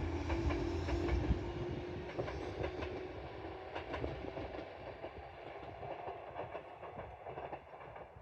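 Tobu Isesaki Line electric train running away, its wheels clacking over rail joints as the rumble fades steadily.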